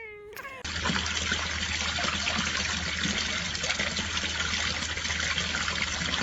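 Water running steadily, starting suddenly about half a second in.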